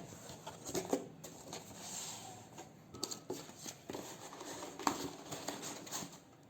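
Handling noise of a cardboard box and a plastic engine-oil bottle being moved: scattered knocks and clicks with rustling, the sharpest knocks at the very start and about five seconds in.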